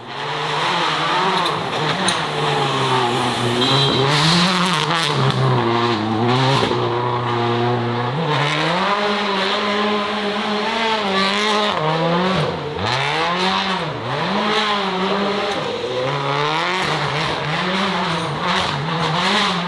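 Racing car engine revving hard with its pitch rising and falling over and over, about once a second in the second half, with tyres squealing as the car is thrown sideways.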